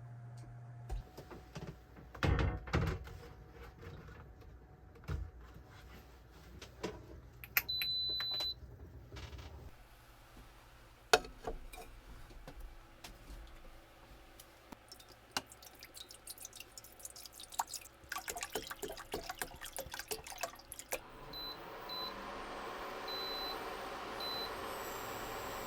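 Meal preparation in a small vehicle cabin: scattered knocks, clicks and clatter of handling things, with a short electronic beep about a third of the way in. Near the end an electric appliance starts a steady hum, with a few quick beeps over it.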